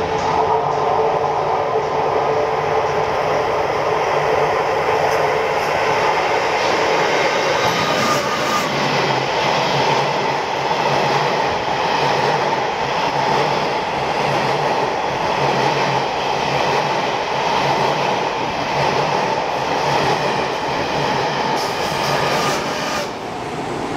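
A train passing on the track: a steady, loud running noise of wheels on rails that drops away about a second before the end.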